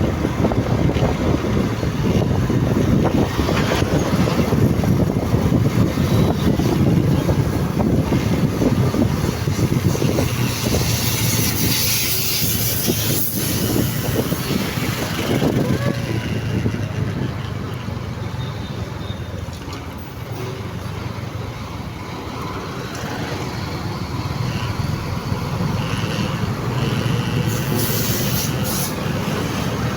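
Wind rushing over the microphone and engine and road noise from a moving motorcycle, growing somewhat quieter for a few seconds past the middle.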